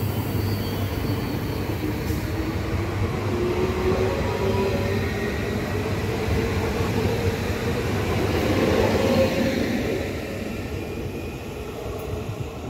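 Double-deck Régio 2N electric multiple unit running past: steady wheel-on-rail rumble with a faint motor whine that rises slowly in pitch. It is loudest about nine seconds in and fades as the last car goes by.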